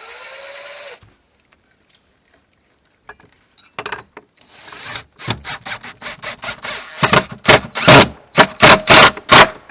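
A hammer striking a fastener into a wooden door: light taps that build into hard blows about two a second. A brief rising squeal sounds about the first second.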